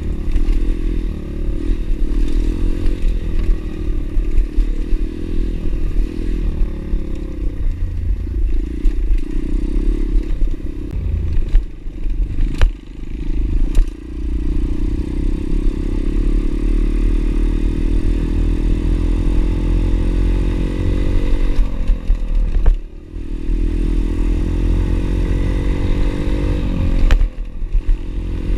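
Pit bike engine running under way, its pitch climbing and falling with the throttle, with brief drops a few times where the throttle is shut off or a gear is changed.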